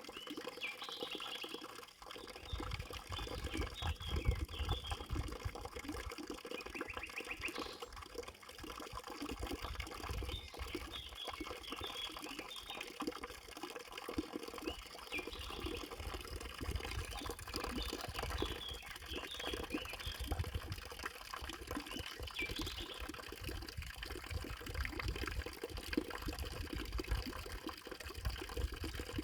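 Nature ambience of running, trickling water, with many short high chirps scattered through it.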